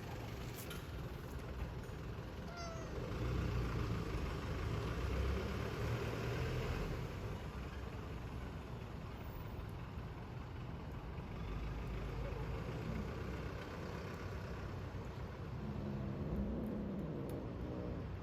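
Cat meowing, a short call about three seconds in and a longer, lower one near the end, over the steady rumble of street traffic that swells as a vehicle passes.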